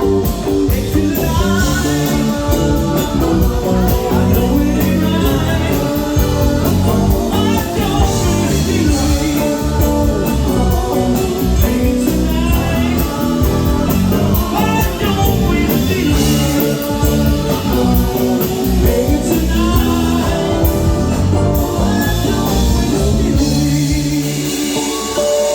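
Live band playing soft rock, with a singer over guitar and drums. The low end drops out near the end.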